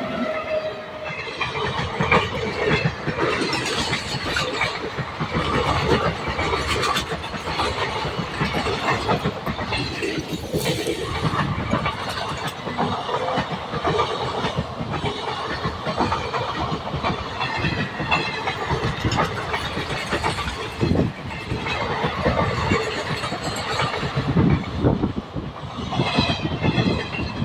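Train running on the tracks: a continuous rattle of wheels and carriages with repeated clacks over rail joints.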